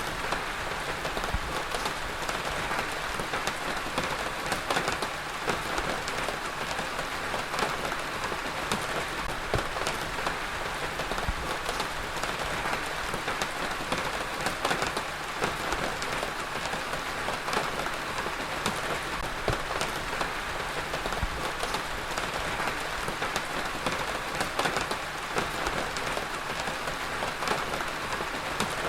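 Heavy rain falling steadily on a surface: a dense, even hiss dotted with many sharp individual drop impacts.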